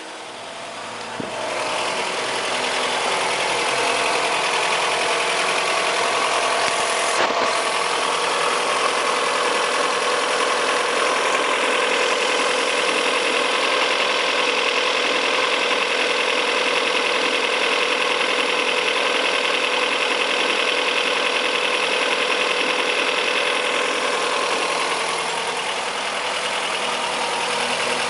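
Fiat Brava 1.6 16-valve engine idling steadily with its accessory belts removed, growing louder about a second and a half in. The timing belt tensioner has been freshly re-set, and the earlier knocking from it is gone: the mechanic judges the fault fixed.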